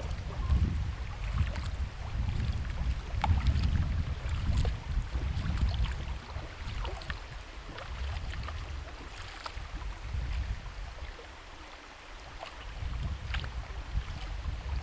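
Wind buffeting the microphone in a fluctuating low rumble, with scattered faint ticks.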